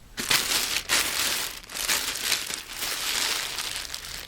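Packaging rustling and crinkling without a break as a subwoofer is unwrapped and handled.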